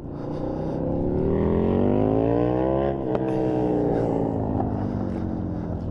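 A vehicle engine revving up steadily for about three seconds, then easing off and winding down slowly, as when a vehicle accelerates and then rolls off the throttle.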